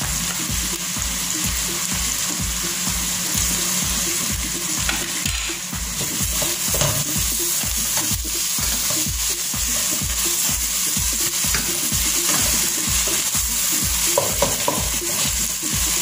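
Chopped onions and garlic paste sizzling in hot oil in a stainless steel pot, stirred with a wooden spoon that scrapes and knocks against the pot. A steady low beat about twice a second runs underneath.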